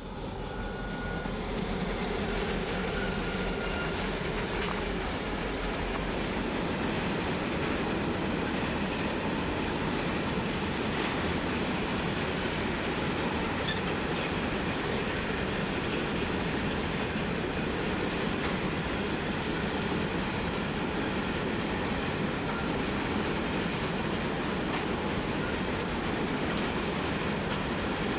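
Grain train hauled by three diesel locomotives running through the loop, its hopper wagons rolling on the rails. The sound builds over the first couple of seconds as the train arrives, then holds steady.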